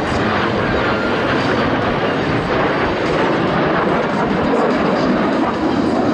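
Jet noise from the Blue Angels' F/A-18 Super Hornet formation flying overhead: a loud, steady rush that holds its level throughout.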